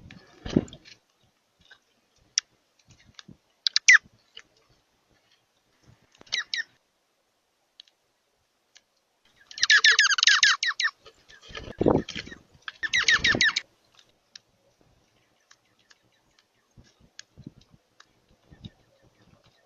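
Birds calling in bursts of rapid, high chirping notes, the loudest runs about halfway through and again a few seconds later, with a couple of dull low thumps: one near the start and one between the chirping runs.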